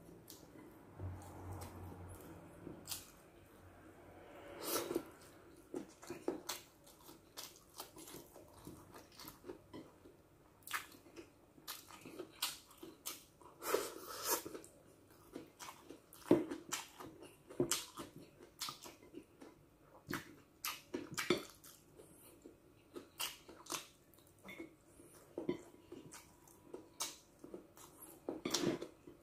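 Close-up chewing of soft stir-fried noodles and rice, with many short, irregular wet mouth clicks and lip smacks.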